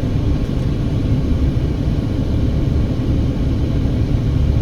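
A car driving, giving a steady low rumble of road and engine noise.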